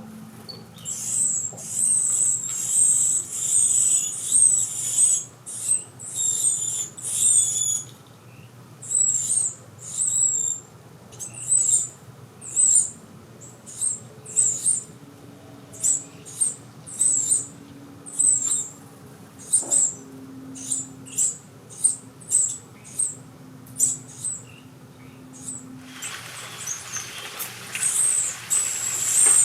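Carolina wren nestlings giving high, squeaky begging calls, a quick run of calls at first and then single calls about one or two a second.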